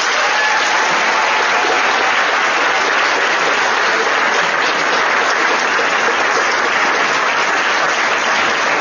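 Audience in a hall applauding steadily, a dense wash of many hands clapping for a prize winner just named.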